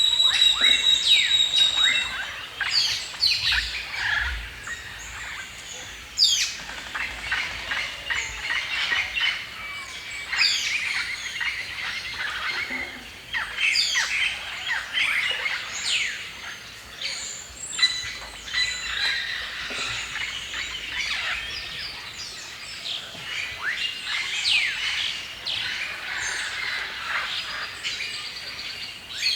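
Many birds chirping and singing at once in a forest chorus, with quick overlapping chirps, short whistles and the odd squawk.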